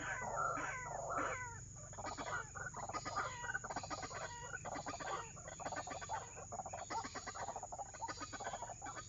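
White-breasted waterhens (ruak-ruak) calling: repeated hoarse rising-and-falling notes for the first second and a half, then a long run of rapid chattering pulses, over a steady high whine.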